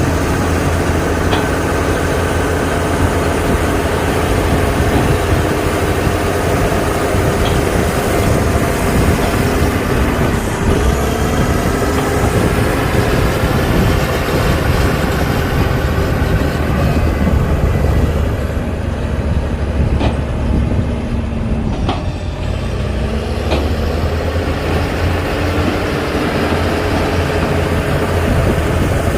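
Heavy diesel engine of a bulldozer working soil, running loud and steady. Its pitch sags twice under load and climbs back, with a couple of short sharp knocks.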